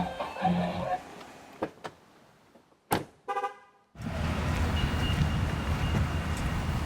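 A sharp knock, then a brief pulsed toot of a car horn, followed by a steady noisy hum.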